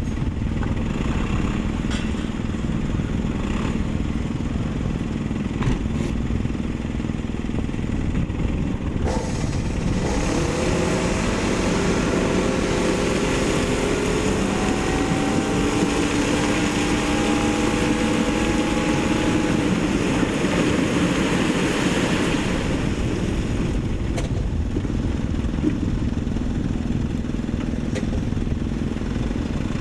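Diesel engines of heavy earthmoving machinery running steadily. From about nine seconds in, a second engine grows louder with a slowly rising pitch, then drops back near twenty-three seconds.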